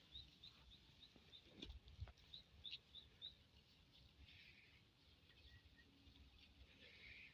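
A small bird chirping faintly: a run of about nine short high notes, roughly three a second, over the first three seconds, then a few fainter calls, over a low rumble.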